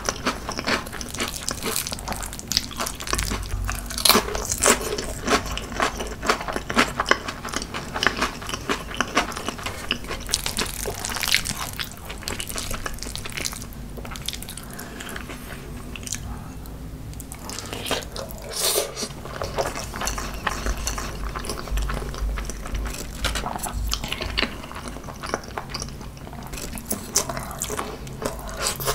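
Close-miked eating sounds: wet chewing and smacking of rice mixed with spicy marinated crab, with a spoon stirring and clicking in a glass bowl. It goes a little quieter for a few seconds in the middle.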